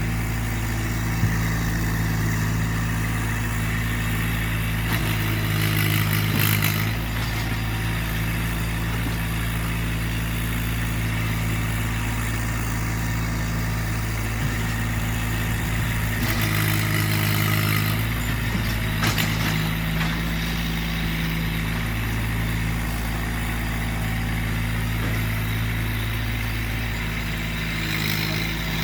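Massey Ferguson GC1710 subcompact tractor's three-cylinder diesel engine running steadily, its note shifting briefly about six seconds in and again around the middle as the machine works. A couple of short knocks stand out above it.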